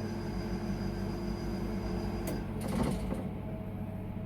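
A/C recharge station running while it charges refrigerant into the system, with a steady hum and a high whine. The whine stops about two seconds in, followed by a brief rattling hiss, and then a lower hum goes on.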